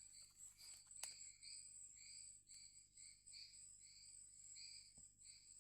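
Faint forest insect chorus: a steady high-pitched buzz with a chirping call repeated about twice a second. A single faint click about a second in.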